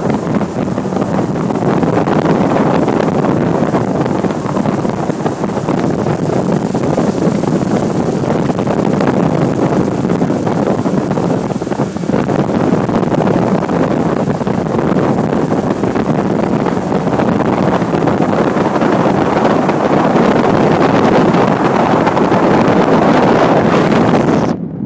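Wind buffeting the microphone on a moving motorboat: a steady rushing noise with the boat's motor and water beneath it. It cuts off suddenly at the very end.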